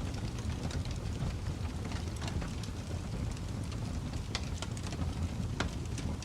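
Wood fire burning: frequent sharp crackles and pops over a steady low rumble of the flames.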